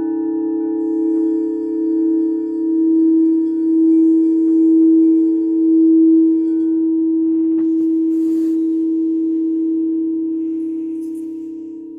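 Singing bowl ringing on after a strike, its tone swelling and pulsing for the first several seconds, then holding steady and slowly fading near the end.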